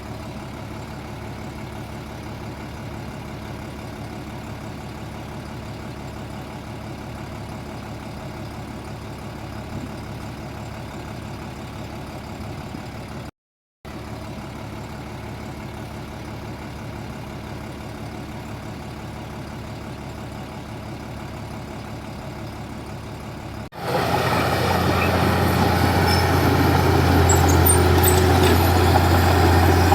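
Komatsu D31P bulldozer's diesel engine running steadily. The sound drops out briefly about halfway through, and near the end it jumps abruptly to a louder, closer engine sound with a strong low hum.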